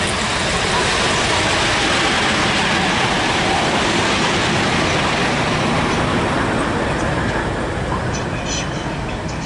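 Train running along the tracks through the station: a steady rush of rolling noise that swells just after the start, holds, and eases off gradually toward the end.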